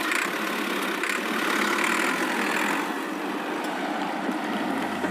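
An engine running steadily at idle, most likely the running sound of the diorama's mini tractor.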